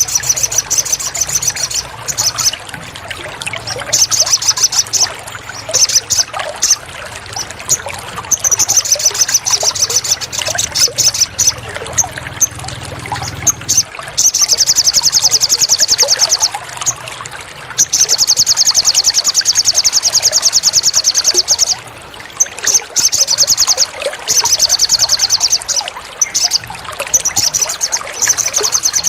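Songbird song: very fast, high trills in repeated phrases separated by short gaps, the longest lasting several seconds. Running, trickling water underneath.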